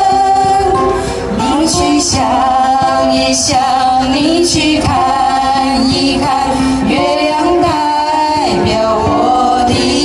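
Voices singing a song, mostly female with some male, to ukulele accompaniment.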